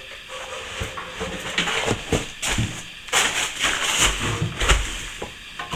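Steel plastering trowel scraping and spreading wet plaster on a wall, in a run of uneven strokes that grows busier after about three seconds.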